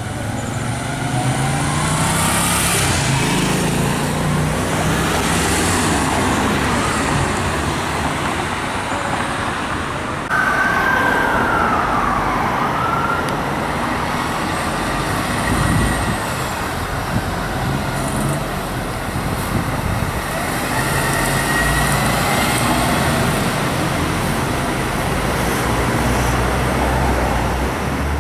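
Emergency vehicle sirens of a fire engine and ambulance running code 3, wailing up and down in pitch over heavy engine and road noise. The level jumps suddenly about ten seconds in.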